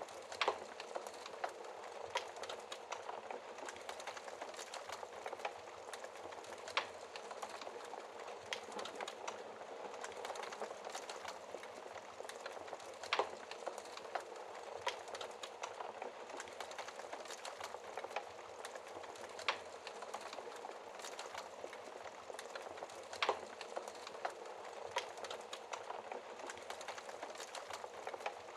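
Wood fire crackling in a fireplace: a steady hiss of burning with sharp pops every few seconds.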